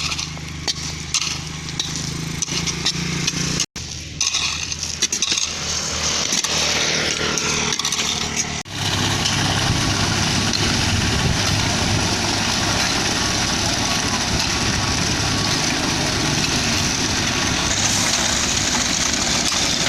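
Diesel engine of a Hino concrete mixer truck running, with a steady low hum. The sound changes abruptly at cuts near 4 and 9 seconds. From about 9 seconds the engine is louder and steady under an even rushing hiss.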